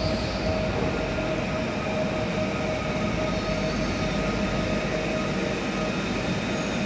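Passenger train at a station platform: a steady rumble with a few steady humming tones held over it, without squeal or clatter.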